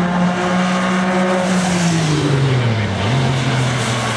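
Racing car engine running hard, its note holding steady and then dropping in pitch about two seconds in, reaching its lowest just before three seconds and rising again after that.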